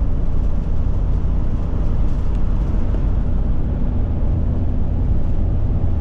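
Steady drone of a Forest River Forester motorhome driving along a highway: engine and road noise heard from the cab.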